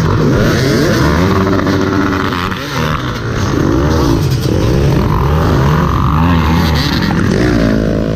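Dirt bike engine being ridden hard off-road, the revs climbing and dropping again and again as the throttle is worked, with wind noise over the microphone.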